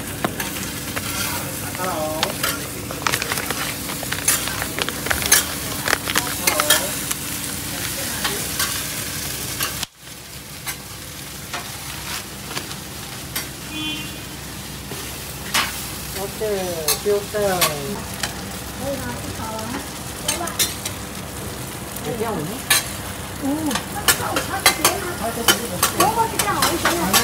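Oyster omelette frying in hot oil: a steady sizzle, with repeated sharp clinks and scrapes of a metal spatula against the pan.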